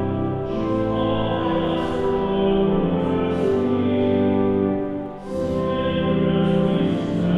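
Church music: singing over held chords, with a short break between phrases about five seconds in.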